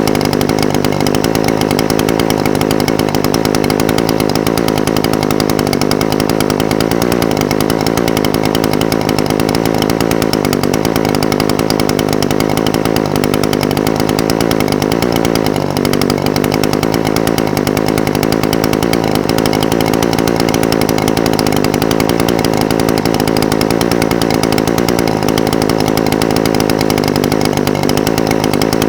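Echo SRM-420TES brush cutter's two-stroke engine idling steadily, the idle speed wavering slightly a few times.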